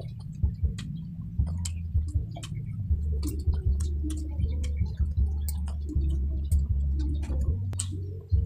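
Close-up chewing of saucy barbecued pork ribs: frequent irregular wet clicks and lip smacks from the mouth, over a steady low hum.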